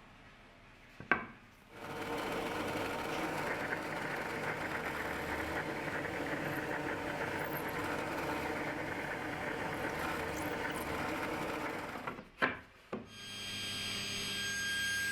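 A handheld power tool starts with a click and runs steadily for about ten seconds, then stops. Near the end, after a couple of clicks, a different machine starts running with a steady whine.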